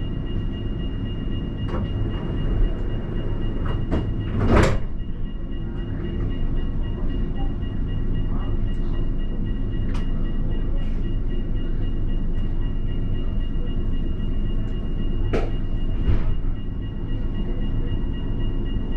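Alstom Citadis tram running, heard from the driver's cab: a steady low rumble with a thin steady whine, and a few sharp knocks, the loudest about four and a half seconds in.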